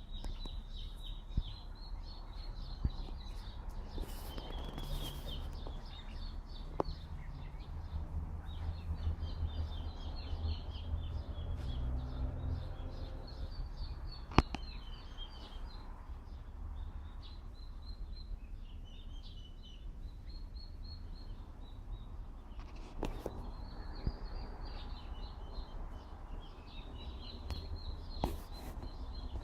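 Small songbirds chirping in repeated rapid trills almost without pause, over a steady low rumble of wind and outdoor background, with a few sharp clicks.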